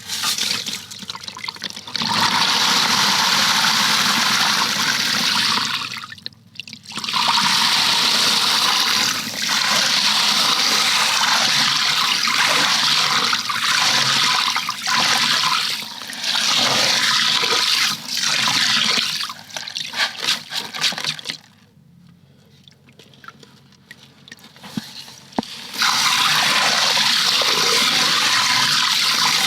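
Water gushing in a loud, steady rush that stops and starts: a brief break about six seconds in, short dips in the middle, a quieter stretch of a few seconds near the end, then rushing again.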